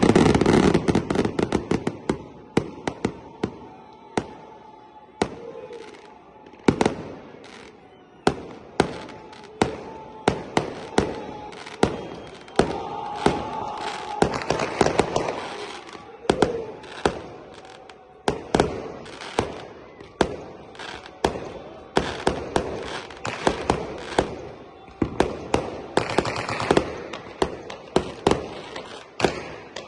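Fireworks going off in a long irregular barrage. A dense, loud run of bangs comes at the start, then sharp bangs and cracks follow several times a second.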